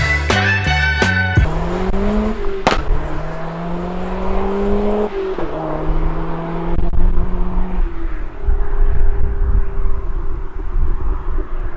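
Turbocharged 1.6-litre Mazda MX-5 four-cylinder accelerating hard, its pitch rising steadily, dropping at a gear change about five seconds in, then climbing again before easing off near eight seconds. Music plays for about the first second.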